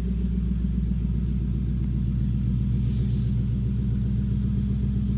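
Ford Boss 302 V8 idling steadily on a cold start, a low, even rumble with no revving.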